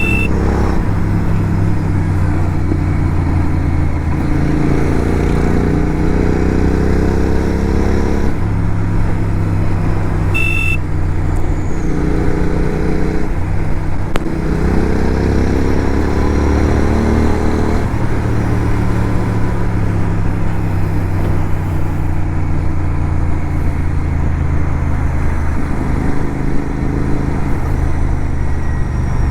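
A motorcycle engine accelerating through the gears while riding: its pitch climbs, drops at each shift and climbs again several times, over steady wind and road noise. A short high beep sounds at the start and again about ten seconds in.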